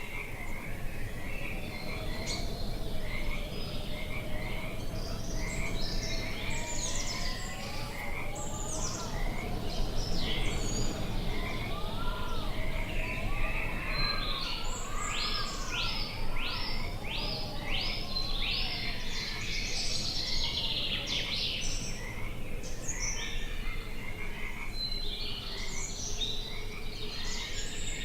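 A chorus of animal calls: many short chirps throughout, with slow rising-and-falling warbles in the first half and a run of about eight quick repeated calls about halfway through.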